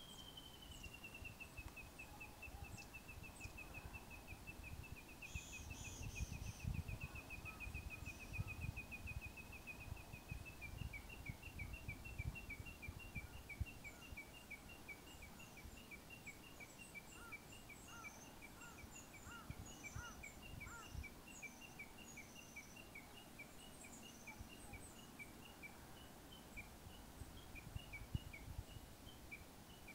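Faint wild birdsong: one bird gives a long, fast series of repeated notes that slide down a little in pitch over the first couple of seconds and, from about a third of the way in, alternate between two notes. Shorter high chirps from other birds come and go above it, over a low irregular rumble.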